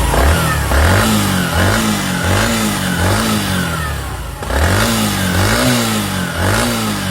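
Bajaj Platina ES motorcycle's single-cylinder four-stroke engine revved in repeated throttle blips, about one a second, with a brief drop a little past the middle. It is running smoothly, with no abnormal noise, after its jammed magneto-side bearings were replaced.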